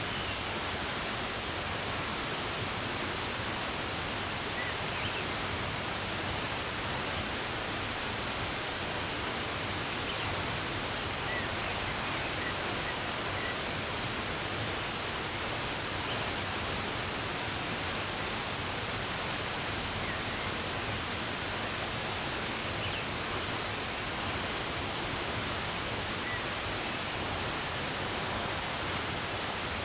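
Steady rush of running water, with faint, scattered short bird chirps over it.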